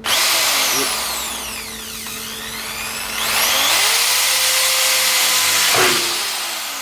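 Corded electric drill with a 5 mm bit drilling holes through a steel repair plate for plug welds: it starts abruptly, runs and eases off, then runs hard again a few seconds later before winding down with a falling whine.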